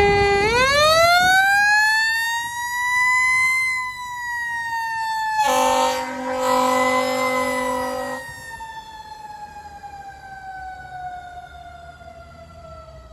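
Fire engine siren winding up to a high wail over a few seconds, then slowly winding down and fading. A steady horn blast of about two and a half seconds sounds over it midway through.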